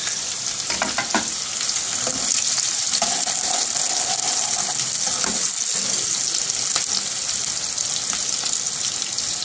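Onions and green chillies sizzling steadily in hot oil in a nonstick kadai. A metal spoon now and then scrapes and taps the pan as they are stirred.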